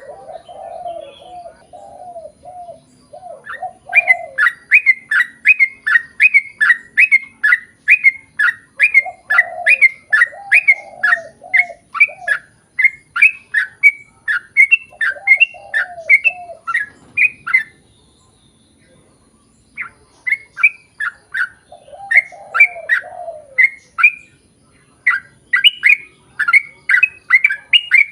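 Yellow-vented bulbul singing long, fast runs of loud repeated chirping notes, about two or three a second, with a break of a couple of seconds past the middle. Lower warbling phrases come in several times between the runs.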